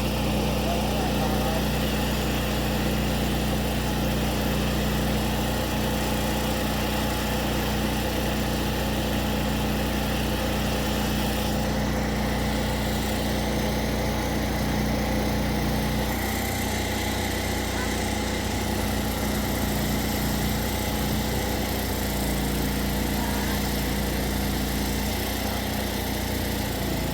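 Steady motor hum with fixed low tones, its sound changing slightly about sixteen seconds in.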